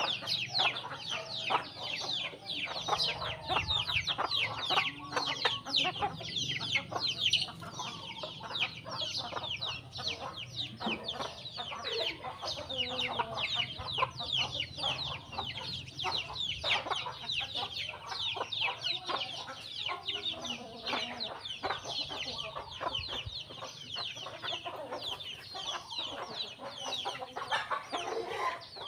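A flock of sparrows chirping without a break, many short falling chirps overlapping, with chickens clucking underneath.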